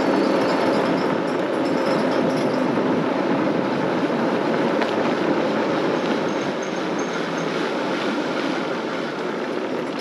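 Steady rush of wind and road noise picked up by a body-mounted microphone while riding an electric bike on the road, easing slightly about six seconds in.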